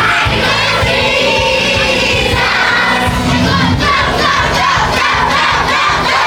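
A crowd of children singing and shouting along with loud worship music that has a steady beat.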